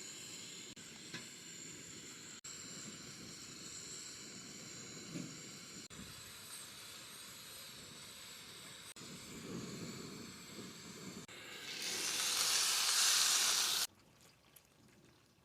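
Food sizzling in a hot pan over a campfire, a steady hiss broken by several abrupt cuts. Near the end a much louder burst of sizzling swells for about two seconds, then cuts off suddenly.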